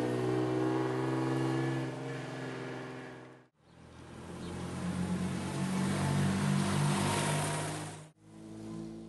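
Classic sports car engines passing on a rally road. A 1957 Lancia Aurelia B24 convertible's V6 pulls away and fades. After a short dropout, a 1958 Jaguar XK150's straight-six is heard approaching, its engine note rising and wavering as it passes close; the sound cuts out again briefly near the end.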